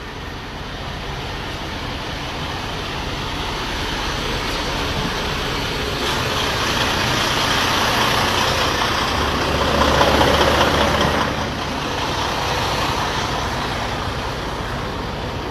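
A heavy truck running nearby, a steady engine and road noise that swells to its loudest about ten seconds in, with a deep rumble, then eases off.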